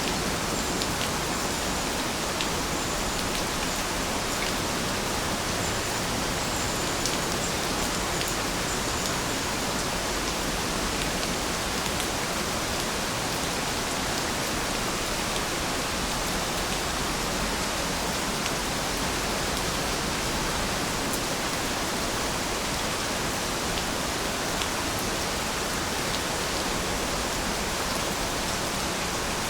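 Steady rain falling as an even hiss, with scattered brief drop ticks and no change in level.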